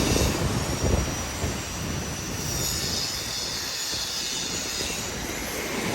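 A train running on the seaside railway next to the beach, its wheels squealing with a thin high whine over a steady rumble that eases off after about a second and a half.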